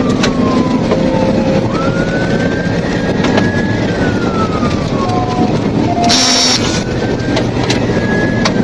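Police car siren on a slow wail, rising and falling over several seconds, over steady loud engine and road noise of the patrol car at speed. A brief high-pitched burst cuts in about six seconds in.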